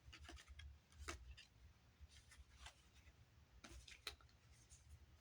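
Near silence with a few faint, scattered taps and rustles of oracle cards being handled, over a low steady room hum.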